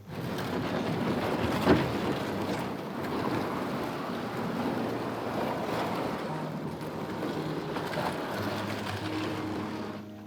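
Steady rushing of river water, with a single knock about a second and a half in. Soft background music comes in during the second half.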